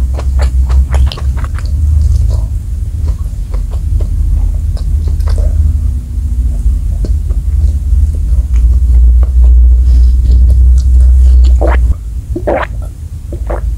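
Close-miked chewing of fried chicken, with wet mouth clicks over a deep low rumble that stops near the end. Then a couple of gulps as water is swallowed.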